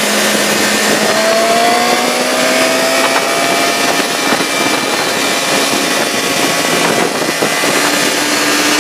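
Motor vehicle engines running over a loud, steady rush of noise, one engine's pitch rising slowly about a second in.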